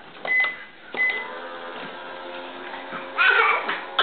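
Toy microwave beeping twice as its buttons are pressed, then its electronic cooking hum running steadily, meaning it has been switched on and is counting down. A short loud vocal sound breaks in a little after three seconds.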